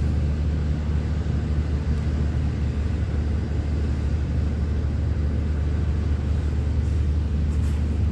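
A steady low machine hum and rumble that holds one pitch, with no rise or fall.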